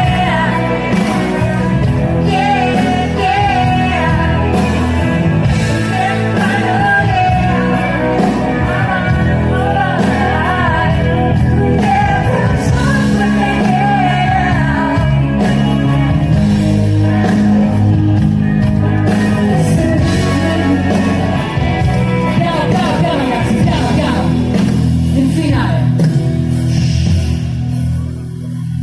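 Live band playing a pop-rock song with a lead singer over a steady drum beat and bass.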